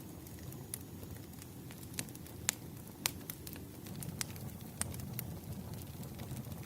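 Campfire crackling: irregular sharp pops and snaps of burning wood over a low, steady rumble of flame, the loudest pops coming about two and a half and three seconds in.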